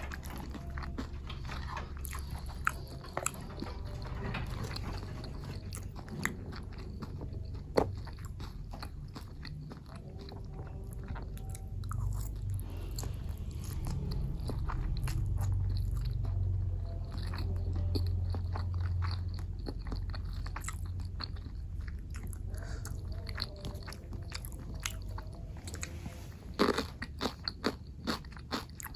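Close-up mouth sounds of a person biting and chewing food, with many small sharp crunches and clicks and a quick run of them near the end.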